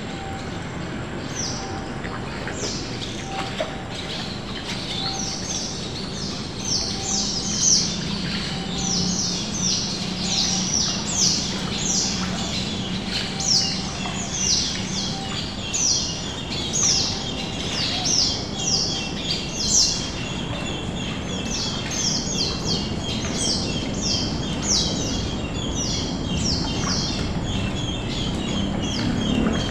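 Birds chirping: many sharp, high chirps that fall in pitch, about one or two a second, joined about halfway through by a fast, even twittering. A low steady hum runs underneath.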